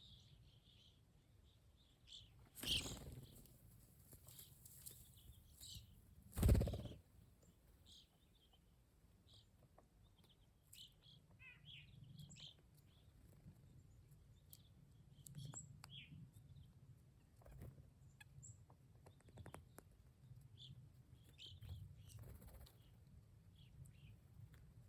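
Small birds calling with scattered short high chirps at a feeding station. Two brief louder whooshes or thumps come about 3 and 6.5 seconds in, the second the loudest.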